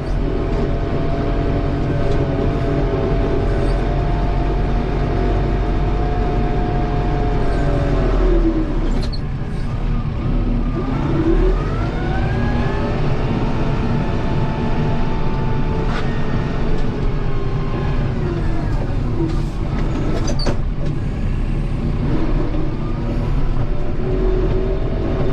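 Kubota M7060 tractor's diesel engine running, its revs dropping about a third of the way in and climbing again, then dipping and rising once more near the end, with a few short clicks or knocks.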